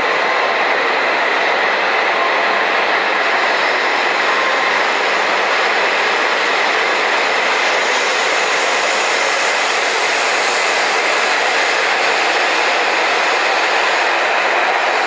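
H5 series Shinkansen pulling out of the station, its cars running past with a steady rush of wheel and running noise as it picks up speed.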